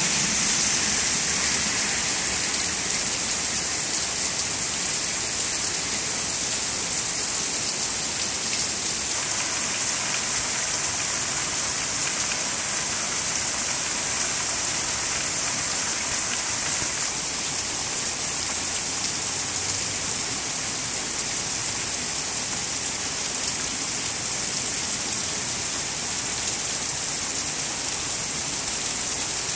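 Heavy rain falling steadily on a flooded street and lawn: an even, unbroken hiss.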